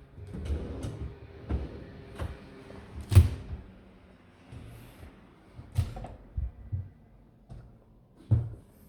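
Kitchen cupboard doors and drawers being opened and shut by hand, with a few sharp knocks and thuds, the loudest about three seconds in.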